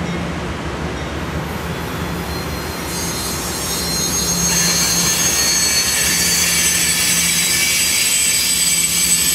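Amtrak Horizon passenger coaches rolling slowly past close by, with a steady low hum. About three seconds in, a high-pitched metallic squeal from the cars' running gear starts, several shrill tones together, and the whole sound grows louder.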